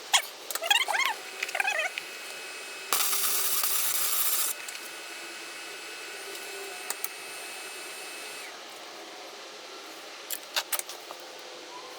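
A wire-feed welder laying a short tack weld: one even, crackling burst of about a second and a half, a few seconds in. Before it come a few short high squeaks and clicks, and near the end a few sharp clicks.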